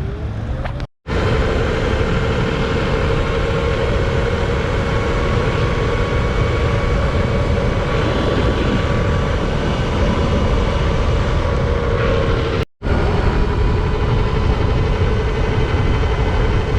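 Sur Ron X electric dirt bike ridden at speed: heavy wind rush on the microphone over a steady whine from its electric motor and drivetrain, the whine rising in pitch near the start. The sound cuts out abruptly twice, about a second in and near the end.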